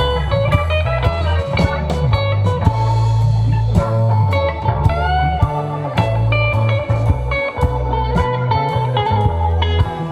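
Live band playing an instrumental passage: an electric guitar lead with bent notes over bass guitar and drums.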